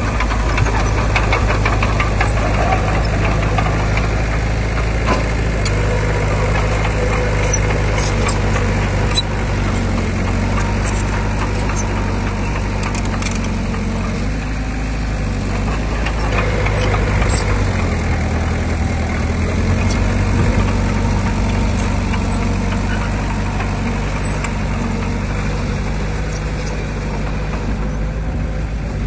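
Heavy diesel engine of earthmoving machinery running steadily, its engine note shifting a few times as the load changes, with faint clicks scattered through it.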